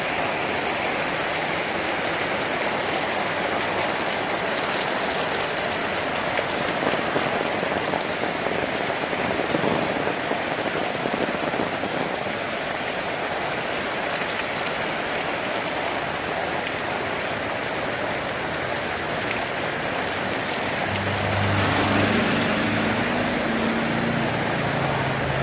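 Heavy rain falling steadily. Near the end the low hum of a passing vehicle's engine comes in under the rain.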